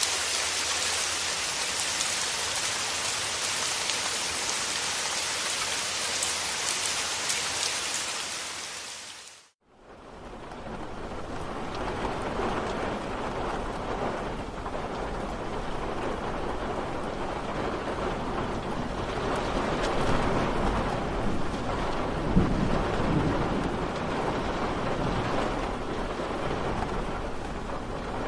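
Steady rain with a bright hiss of falling drops. About nine and a half seconds in it fades out to a moment of silence, then fades back in as a duller, deeper rain with a low rumble of thunder underneath.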